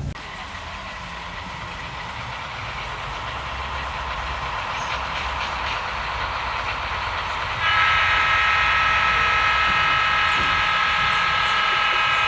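HO scale model train running on the layout, its running noise slowly getting louder. From about eight seconds in, a loud horn with several tones sounds for about five seconds and cuts off.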